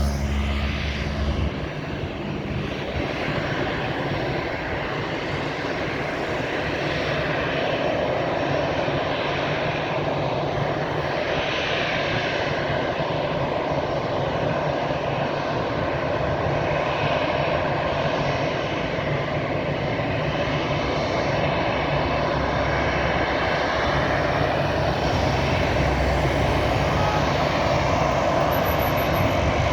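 Jet engines of an Airbus A320 airliner taking off: a steady, loud rushing noise that slowly grows a little louder.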